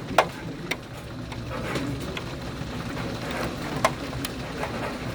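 Heavy thunderstorm rain hissing steadily, with a handful of sharp irregular taps of something striking a hard surface; the loudest tap comes just after the start.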